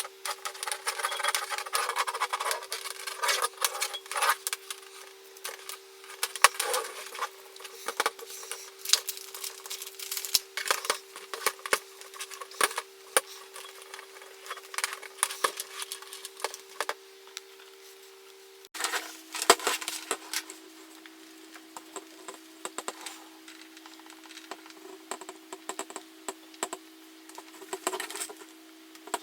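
Scrubbing and scraping on a hair dryer's plastic casing, with many irregular clicks and knocks of hard plastic being handled, over a steady hum. The hum drops in pitch about two-thirds of the way through.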